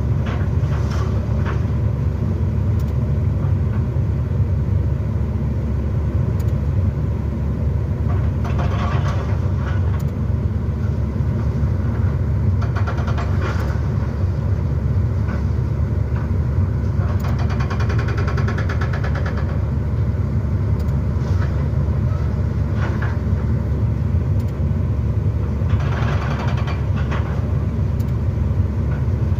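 Excavator's diesel engine running steadily as a loud low rumble, with several short, noisier rattling bursts from the machine at work, one about nine seconds in, a longer rapid rattle a little past the middle and another near the end.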